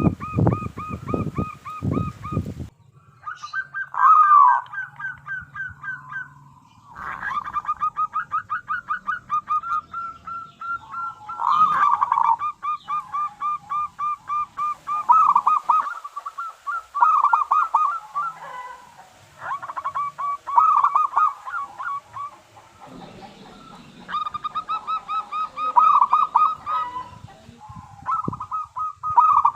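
Zebra dove (perkutut) calling: repeated bouts of rapid, staccato cooing trills, each a run of quick pulsed notes, with short pauses between bouts.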